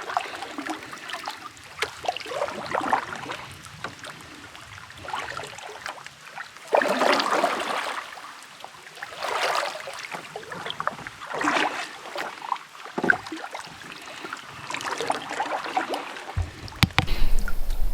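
Canoe paddling: water swishing and splashing with each paddle stroke, every two to three seconds, with a few light knocks. Near the end it gives way to a low steady rumble.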